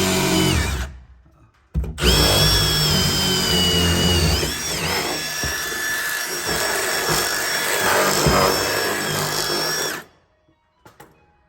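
Power drill boring holes into a ceiling: a short run that stops just under a second in, then a longer run of about eight seconds, its motor whine dipping in pitch briefly midway under load before it stops near the end.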